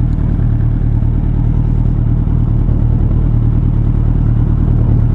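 Suzuki Hayabusa's inline-four engine running at a steady, unchanging pitch while cruising.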